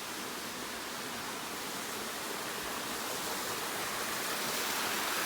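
Steady rushing of falling water from Crabtree Falls' cascades and creek, swelling slightly toward the end.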